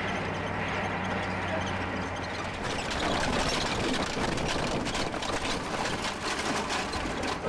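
Vehicle engine hum under road and wind noise at speed. The rushing noise grows louder and more crackly about two and a half seconds in.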